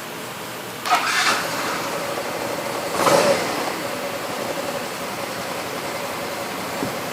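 Yamaha Axis Z scooter's 125cc fuel-injected Blue Core engine starting about a second in, revved briefly about three seconds in, then idling steadily.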